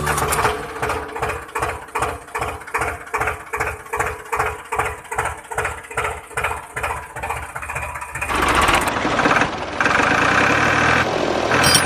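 An engine chugging in even beats, about three or four a second, like a slow tractor idle. About eight seconds in it gives way to a louder, even rushing noise.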